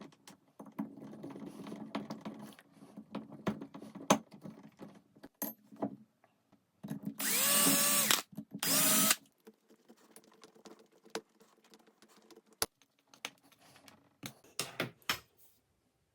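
Power drill run in two short bursts about seven seconds in, the motor whining up to speed each time. Around it are light clicks and knocks of wooden pieces being handled.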